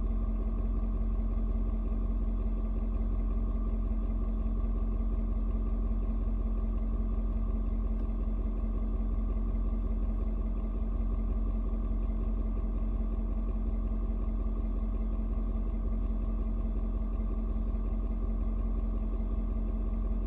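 Ford Super Duty's 6.7 Power Stroke V8 turbo diesel idling steadily on a cold start, still cold and warming up.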